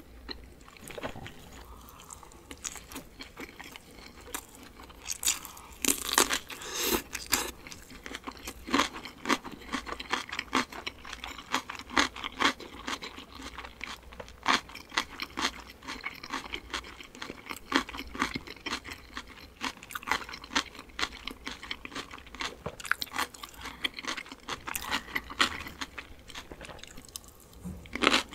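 Close-miked eating sounds: steady chewing, then dense crisp crunches as she bites into cucumber kimchi.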